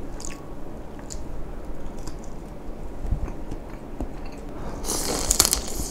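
Close-miked wet chewing of mala-sauced crayfish meat, with small smacking clicks, and a louder stretch of crackling near the end.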